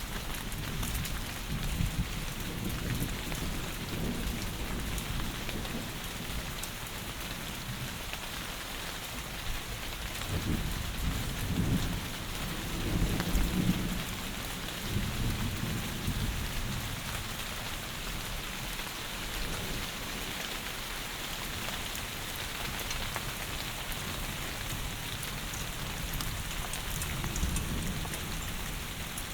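Heavy rain pouring steadily, with a low rumble of thunder that swells about ten seconds in, peaks around the middle and fades a few seconds later.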